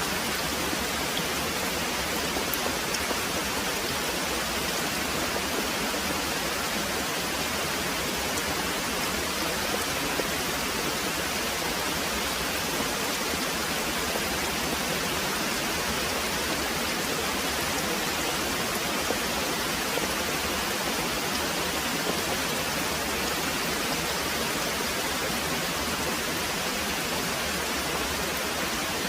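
Very heavy rain pouring steadily, an even, unbroken hiss with no separate drops or rumbles standing out.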